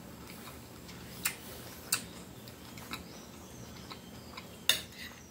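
A person chewing a mouthful of food with the mouth closed, with a few sharp clicks spaced about a second apart; the loudest click comes near the end.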